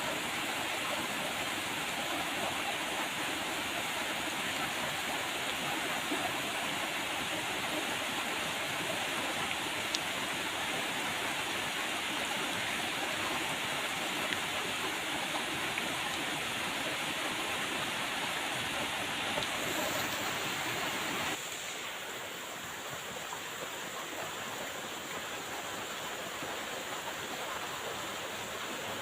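Steady rain falling, an even hiss of water. About two-thirds of the way through it abruptly turns quieter and thinner.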